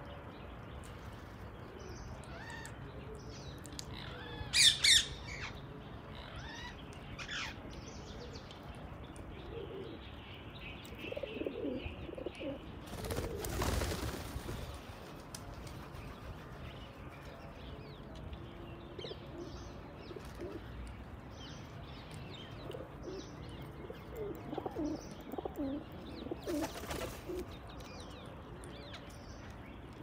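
Birds calling: a burst of sharp, high chirps about five seconds in and another near seven seconds, low wavering calls in two stretches, and two short rushes of noise.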